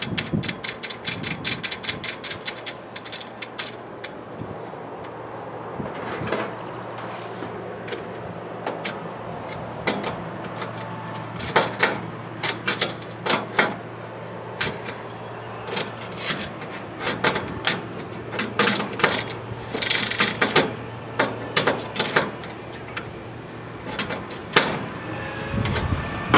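Ratchet spanner clicking rapidly for a few seconds as bolts on aluminium solar-panel mounting rails are tightened. It is followed by scattered clicks and knocks of metal parts being handled, over a low steady hum.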